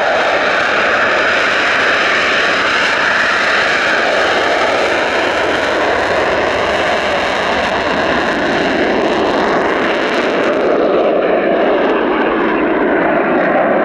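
Eurofighter Typhoon's twin jet engines, a loud steady jet noise with a slowly falling pitch; the high end fades out about ten seconds in as the jet moves away.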